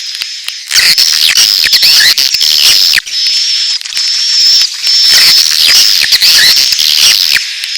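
Swiftlet lure call recording: edible-nest swiftlets' rapid chirps and twittering mixed with chicks' calls, dense and continuous, with a thin steady high tone that breaks off and restarts every second or so.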